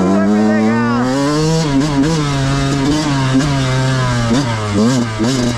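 Yamaha YZ125 two-stroke dirt bike engine revving under throttle while riding, its pitch climbing about a second in, holding high, then dipping and rising in quick swoops near the end.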